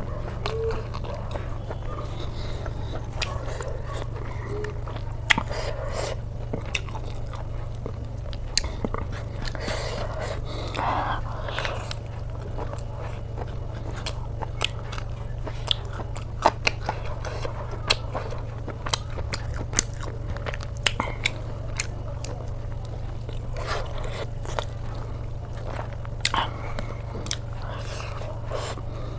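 A person eating pork belly close to the microphone: biting and chewing, with sharp crunchy clicks and mouth noises at irregular intervals, over a steady low hum.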